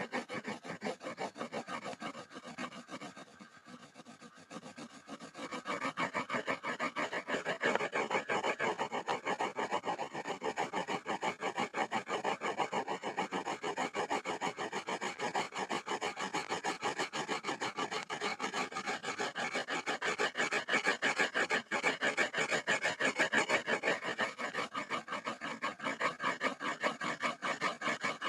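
Pencil scribbling on a board: fast back-and-forth strokes of graphite scratching over the surface, easing off briefly a few seconds in before picking up again.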